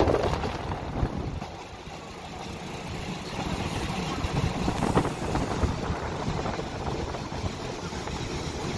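Steady rumbling running noise of a moving train, heard from inside the carriage, with some wind on the microphone.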